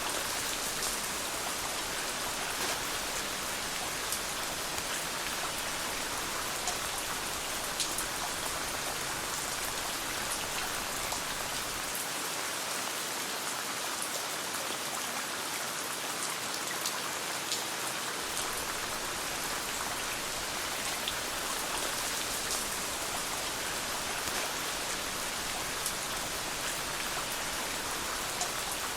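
Steady rain falling as an even hiss, with scattered sharp ticks of drops or pops throughout.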